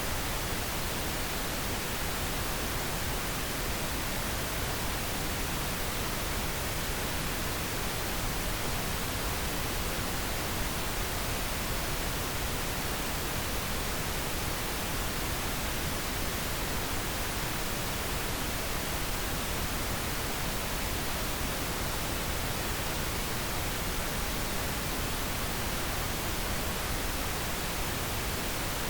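Steady pink noise: an even, unchanging hiss with no breaks, generated as a sleep aid.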